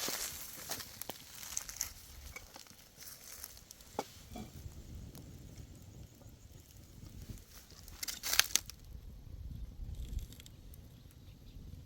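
Dry wheat stalks crunching and rustling as they are reaped and handled, with scattered crisp crackles and one louder crunch about eight seconds in.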